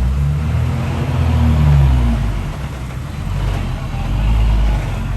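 Heavy diesel earthmoving machine engine working under load, its low pitch and loudness rising and falling.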